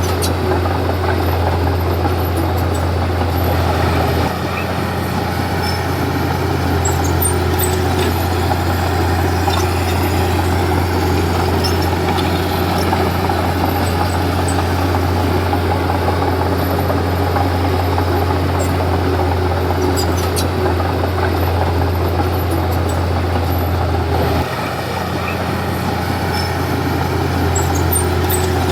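Komatsu D31P bulldozer's diesel engine running steadily under a low drone, with scattered faint clicks. The level drops abruptly about four seconds in and again near the end.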